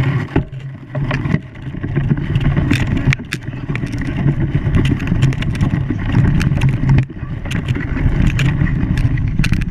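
An engine running steadily with a low hum, with frequent short clicks and knocks over it.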